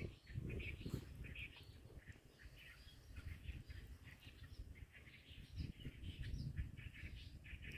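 Small birds chirping with many short, quick calls, faint over a low background rumble.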